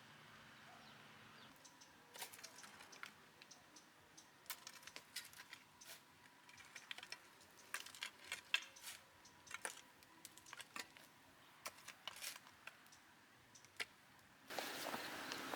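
Faint, irregular light clicks and taps, then a steady rushing noise that starts suddenly shortly before the end.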